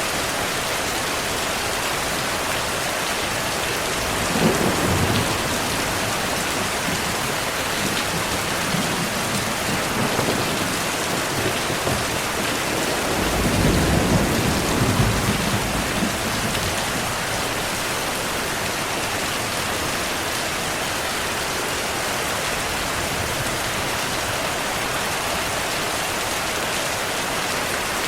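Steady heavy rain with thunder rumbling twice: a short rumble about four seconds in and a longer, louder roll in the middle.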